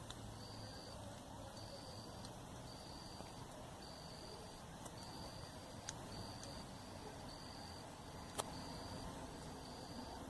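Night-time campfire crackling faintly, with two sharp pops about six and eight seconds in, while an insect chirps in short, even high pulses a little more than once a second.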